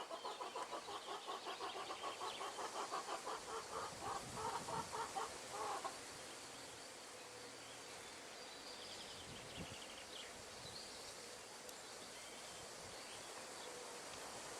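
Wind through trees, a soft even rustle. For about the first six seconds an animal's rapid pulsed call, about five notes a second, sounds over it and then stops; a few faint high chirps follow later.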